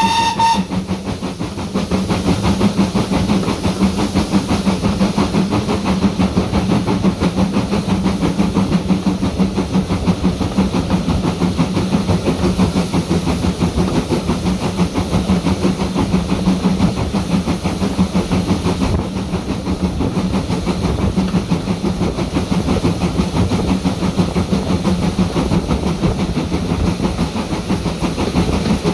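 A heritage railway locomotive working steadily, with a constant low drone and fast, rough pulsing. It opens with a brief high signal blast.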